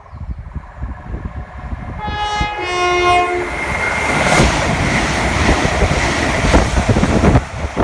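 A train sounds a two-note horn, high then low, then passes at speed with a loud rush and wheel clatter on the rails that cuts off sharply near the end.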